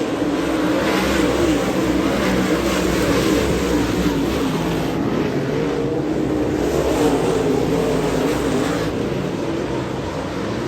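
Dirt-track modified race car engines running hard on a dirt oval during a race, the engine pitch rising and falling steadily over a haze of tyre and engine noise.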